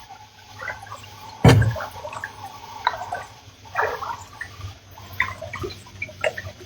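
Water splashing and dripping close to a kayak, in irregular small splashes, with one sharp splash about a second and a half in.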